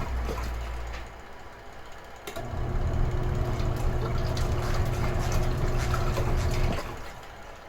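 Retro-style washing machine motor running in spells with a low steady hum: it dies away about a second in, starts again after a short pause, and stops near the end.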